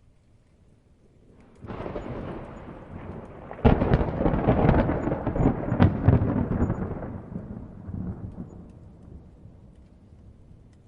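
A thunderclap: a sudden onset about two seconds in, a louder crack shortly after, then a long rolling rumble that fades out over several seconds.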